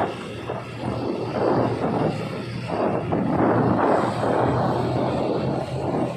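Passenger train running along the track, heard from inside a carriage: a steady rumble and low hum mixed with rushing wind noise.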